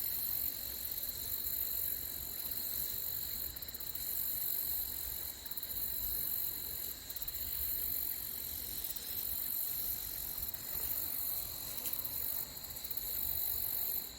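Crickets or similar insects trilling in a steady, high-pitched chorus, over the low, even noise of a flowing creek.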